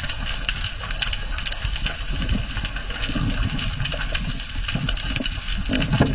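Steady rushing water noise with a low rumble and many scattered sharp clicks and crackles throughout.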